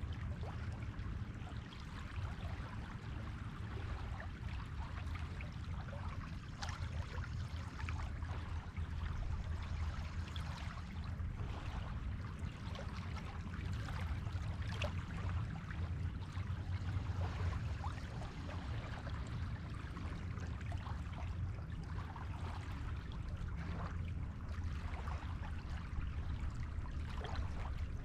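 Surf washing on a beach: steady water noise with fine crackling fizz and gentle swells in loudness over a low rumble.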